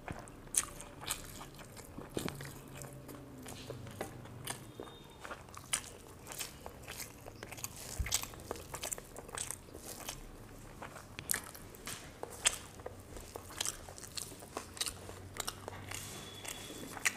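A person chewing a mouthful of fried surma fish and rice close to the microphone, with wet smacking and irregular small crunches and clicks all through.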